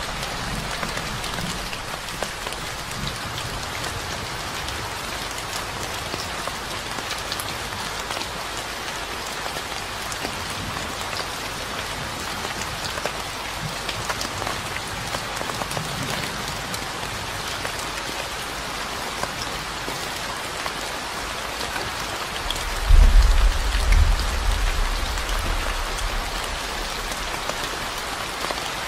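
Steady rain falling on surfaces, with many individual drops ticking. About two-thirds of the way through, a low rumble swells up suddenly and fades away over about three seconds.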